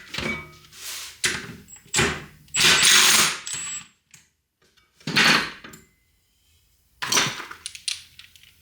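Metal hand tools clanking and knocking on the hub's spindle nut as it is loosened with a wrench, with a brief metallic ring about a third of the way in. There are several separate clanks, with short quiet gaps between them.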